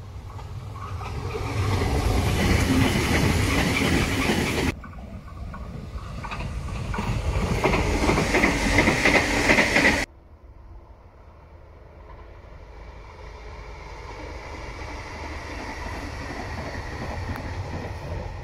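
Madrid Metro 6000-series electric train running past on surface track, its wheels clattering on the rails. The loud passing noise breaks off abruptly twice. After that a quieter, more distant train slowly grows louder.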